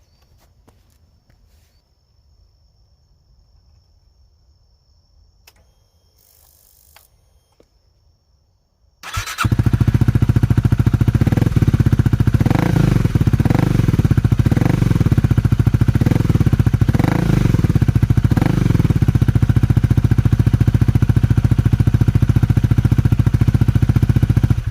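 Honda Rebel 250's single-cylinder engine starting about nine seconds in and running through a Danmoto slip-on muffler, revved in about six short blips. Before it starts there are only a few faint clicks.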